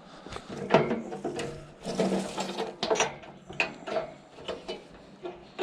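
Irregular clanks, knocks and rattles of scrap metal being handled as an oven extractor fan is tied up.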